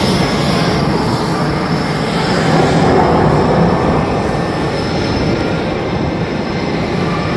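Loud, steady aircraft engine noise from a plane flying by, swelling a little about three seconds in and then easing.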